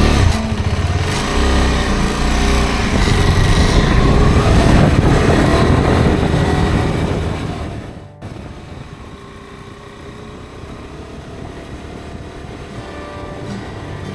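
Motorcycle engine and wind noise while riding, loud and steady, then cutting suddenly about eight seconds in to a quieter, steadier running sound.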